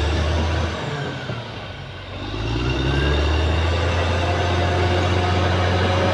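Caterpillar D6R XL bulldozer's diesel engine working, its sound dropping away about a second in and climbing back up to a steady working pitch by about three seconds.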